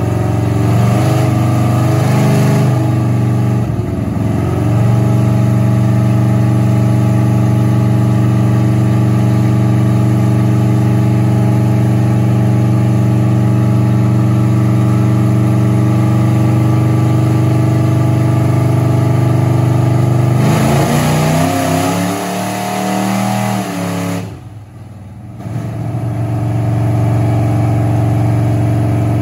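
Pontiac Firebird's engine running on a chassis dyno, holding a steady, even note for a long stretch. The revs shift in the first few seconds, waver and drop about twenty seconds in, ease off briefly, then settle back to the steady note.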